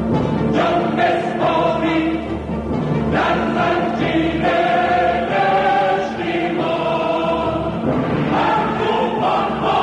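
A choir singing with music, holding long notes that change pitch every second or so.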